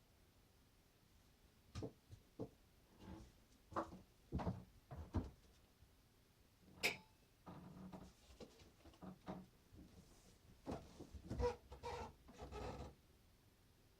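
Light irregular knocks, clicks and scrapes of small objects being handled, with one sharp click about seven seconds in.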